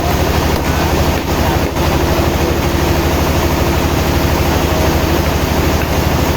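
An engine running steadily at an even speed, with a low, fast throb.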